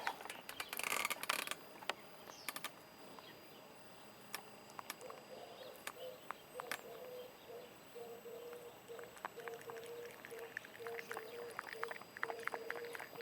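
Cat lapping water: faint quick clicks, thickest in the second half. Under them, from about five seconds in, a faint low note repeats roughly twice a second.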